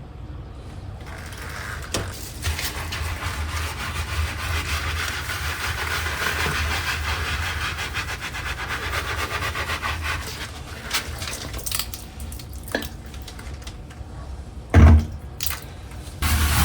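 A scrubbing brush scouring the balcony floor in steady, rapid back-and-forth strokes. A short loud knock comes near the end.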